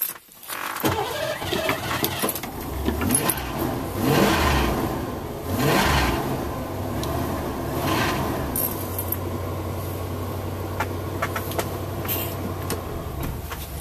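1987 Ford F350's 351 Windsor V8 with a Holley four-barrel carburettor running shortly after a cold start, blipped up three times and then settling into a steady idle.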